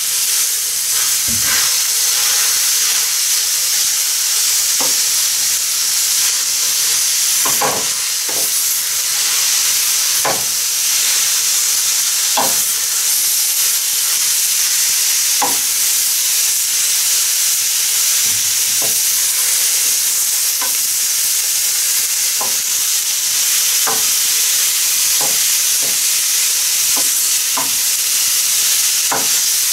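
Grated pumpkin, carrot and onion frying in oil in a frying pan with a steady sizzle. A wooden spatula stirs and spreads the vegetables, scraping and knocking against the pan every second or two.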